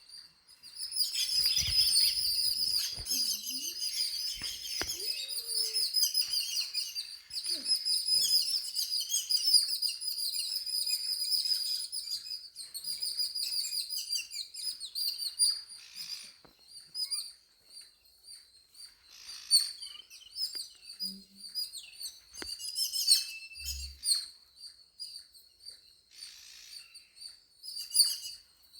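Small birds chirping: a dense, rapid, high-pitched twittering for roughly the first fifteen seconds, thinning to scattered single chirps afterwards.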